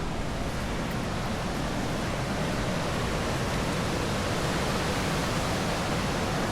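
River water rushing steadily, heard as a constant even roar that grows slightly louder about halfway through.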